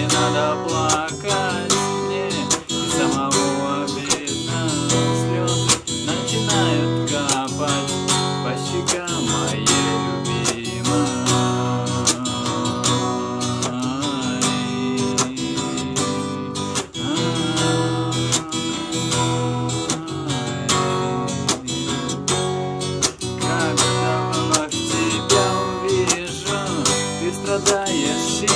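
Acoustic guitar strummed in a steady rhythm, with a melody line played over the chords: an instrumental passage of a song with no singing.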